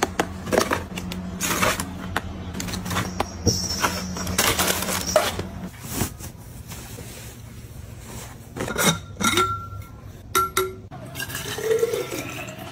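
Small hard objects clinking and clicking as they are picked up and set down one after another, over a low steady hum that stops about halfway through.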